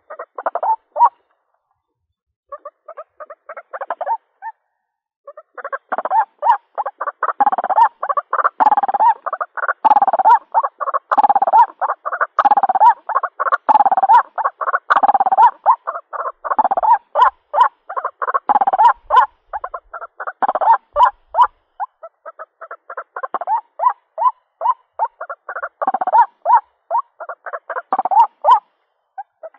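White-breasted waterhen (ruak-ruak) calling its mate: a fast run of repeated harsh notes, sparse for the first few seconds, then dense and continuous from about five seconds in, thinning a little near the end. It is the call used as a lure to draw the bird in.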